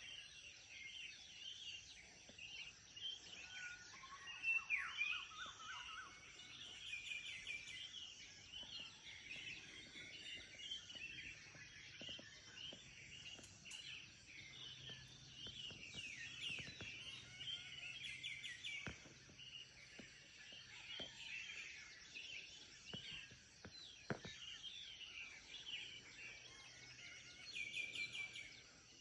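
Morning chorus of many small birds chirping and twittering over one another, with a louder, nearer burst of calls about four seconds in.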